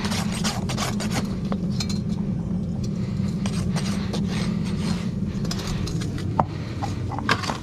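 Farrier's rasp being stroked repeatedly across a horse's hoof, over a steady low hum that stops about six seconds in. A couple of sharp clicks near the end.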